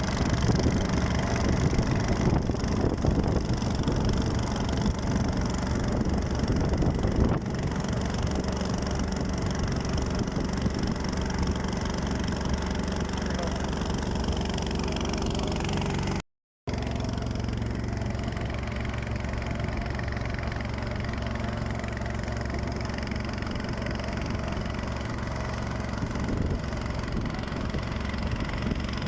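An engine running steadily, with a brief break in the sound a little past halfway.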